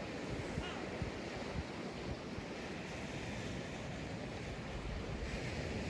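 Sea surf breaking and washing up a sandy beach, with wind buffeting the microphone as an uneven low rumble. The wash swells again about five seconds in.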